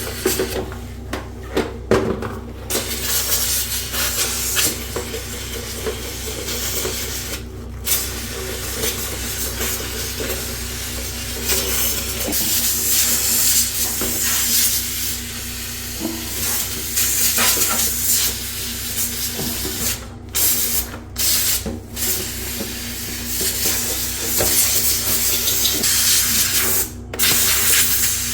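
A cleaning spray jet hissing steadily in long spells. It stops briefly about a second in, near 8 seconds, a few times around 20 to 22 seconds, and near the end, over a steady low hum.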